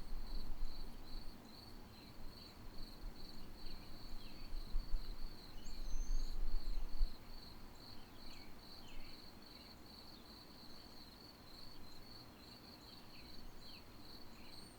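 A cricket trilling steadily in a fast, even pulse, with a few faint, short bird chirps. A low rumble comes and goes in the first half.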